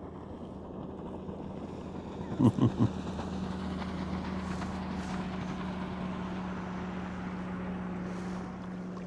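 Motorboats passing on the lake: a steady engine drone that swells a little about three seconds in and then holds. Just before the swell come three short, loud, pitched blips in quick succession.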